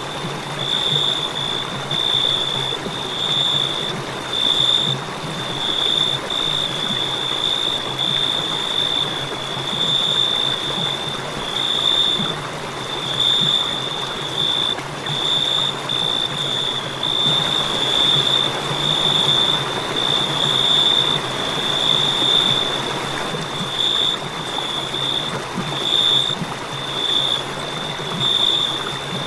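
Crickets chirping steadily: a high, shrill trill broken into short pulses about once or twice a second, over a soft background hiss.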